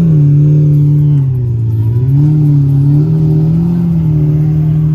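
Lamborghini Murciélago Roadster's V12 engine moving off at low speed. Its revs dip about a second in, climb again around two seconds, then hold steady.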